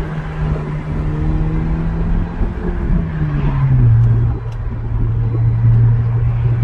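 2019 Honda Civic Sport with its muffler deleted, driving. The exhaust gives a steady low drone that drops in pitch a little past halfway through as the revs fall.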